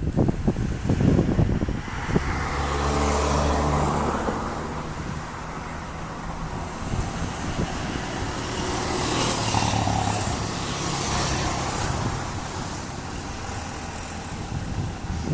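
Cessna 172S Skyhawk's single piston engine and propeller droning, with a broad rushing noise over it, swelling twice, about three seconds in and again near the ten-second mark. Wind buffets the microphone at the start.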